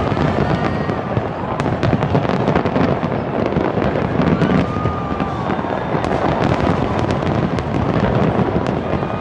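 Large fireworks display: many shells bursting in quick succession, a dense, continuous run of bangs and sharp crackles.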